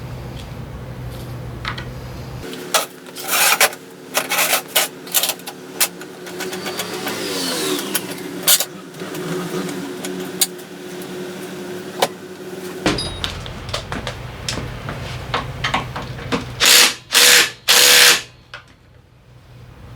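Power tool running in spells, with sharp clicks and knocks of metal parts, as fasteners are taken out to remove the Honda PCX 125 scooter's engine. Three loud short bursts come near the end.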